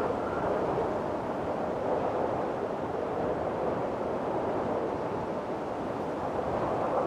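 Windstorm: strong wind blowing in a steady rushing noise, rising and easing only slightly.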